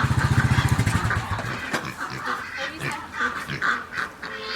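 Farm birds honking in short scattered calls. A low, evenly pulsing engine rumble fades out about a second in.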